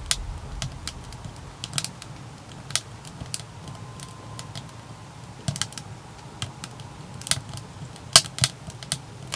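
Fire in a wood-burning stove crackling and popping with irregular sharp snaps, the loudest about eight seconds in. The stove is burning hard on firewood that includes a freshly added wet log.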